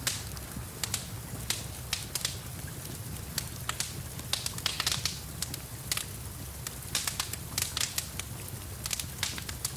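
Wood fire crackling, with irregular sharp pops several times a second over a steady low rumble, and rain falling steadily behind it.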